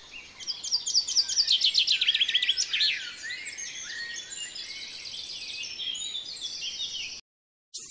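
Several birds chirping and calling at once, with a fast run of repeated chirps loudest in the first few seconds. It cuts off abruptly near the end.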